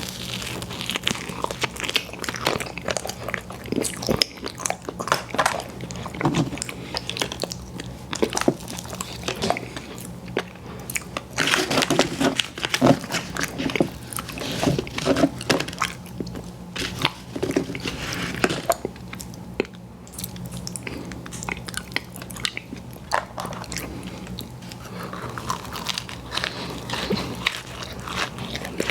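Close-miked biting and chewing of a fast-food dessert pie: crisp crust crunching in quick, irregular bites with wet mouth sounds, busiest through the middle.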